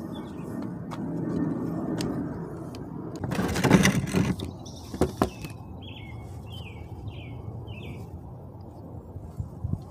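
Small birds chirping in short repeated notes, over a steady low outdoor background. About three and a half seconds in there is a loud rustling scrape lasting about a second, followed by two sharp clicks.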